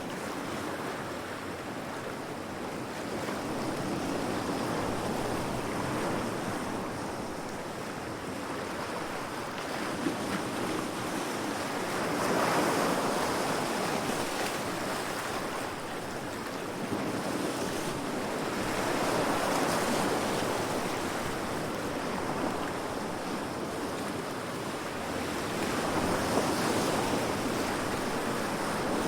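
Heavy sea waves crashing against rocks: a steady wash of surf that swells into a louder surge every several seconds.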